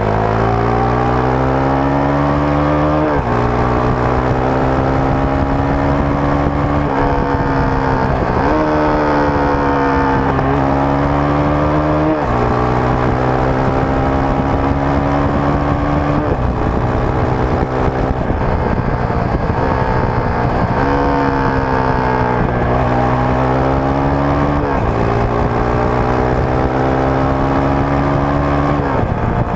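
Rusi Sigma 250 motorcycle's stock exhaust while riding. The engine note climbs in pitch and drops sharply about every four seconds as it accelerates and shifts gear.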